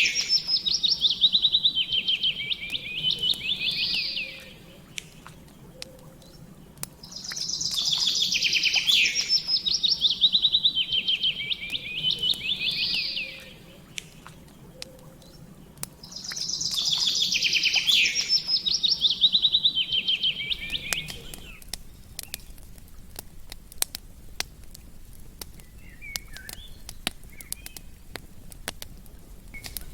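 A songbird sings the same phrase three times, each a few seconds of rapid trilled notes that step down in pitch partway through. Under it a campfire crackles with scattered sharp pops, which is all that is left after about 21 seconds.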